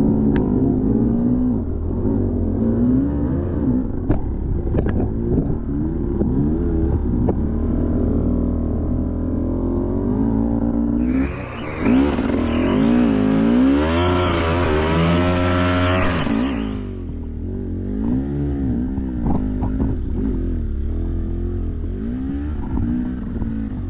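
Enduro dirt bike engine running under load, its pitch rising and falling with the throttle, with a harder, louder rev from about 11 to 17 seconds in. Scattered knocks and clatter run through it.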